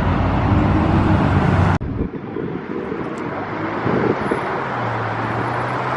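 Car engines on a road: a loud engine note cuts off suddenly about two seconds in, followed by quieter traffic noise and an engine idling steadily near the end.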